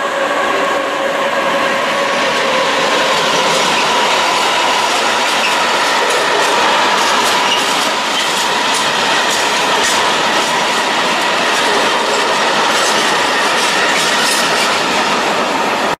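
Freight train of covered wagons rolling past: a steady rumble of wheels on rail with irregular clicks and a steady wheel squeal, the lower of its two tones fading about four seconds in.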